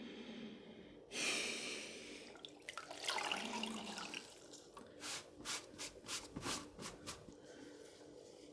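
Water splashing and sloshing at a pottery wheel: a short rush of water about a second in, wet sloshing a couple of seconds later, then a quick run of about eight short splashes. A faint steady low hum runs underneath.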